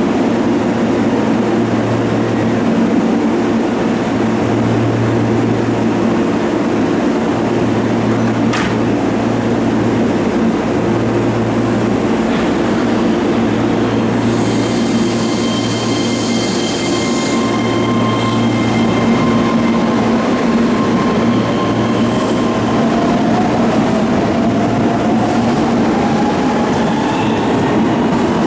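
Keihan electric train at the platform: a steady low hum from its equipment, a burst of air hiss about halfway through, then a motor whine that rises slowly in pitch over the last several seconds as the train starts to move.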